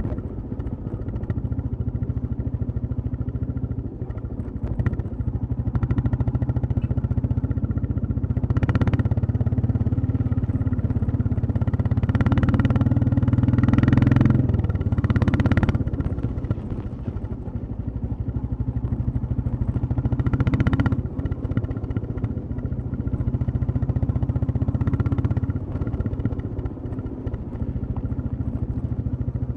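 Royal Enfield Classic 350 single-cylinder engine and exhaust running steadily under way. The engine grows louder a little before halfway and eases off a few seconds later, with a few brief rushes of noise.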